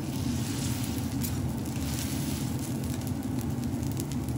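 Egg fried rice sizzling in fat on a hot steel teppan griddle, a steady frying hiss over a low hum.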